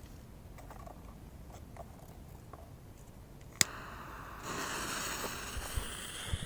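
A sharp click about three and a half seconds in, then a rising hiss and, a second later, a high multi-tone whistle from a whistling firework (свистулька) burning.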